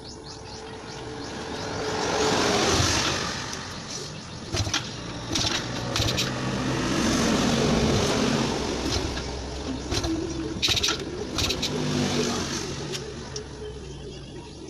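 A motor vehicle engine's noise swelling and fading twice, loudest about three seconds in and again around the middle, with several sharp clicks in between.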